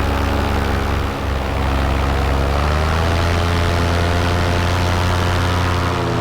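Paramotor engine and propeller running steadily in flight, close to the microphone. It dips briefly about a second in, then its pitch rises a little as the throttle opens around the third second.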